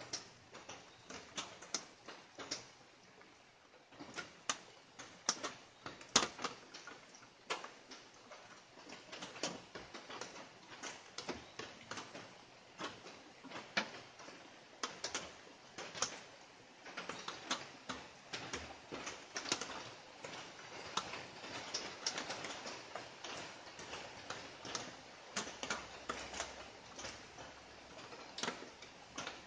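Light rain: single drops ticking and pattering irregularly, a few sharper taps standing out, with the patter growing denser through the second half.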